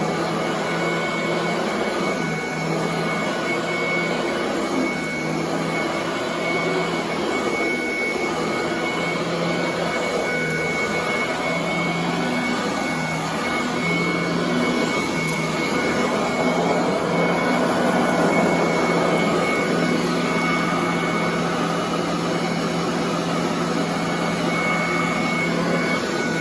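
Royal commercial vacuum cleaner running steadily on carpet: a constant rush of air with a steady high whine over a low motor hum.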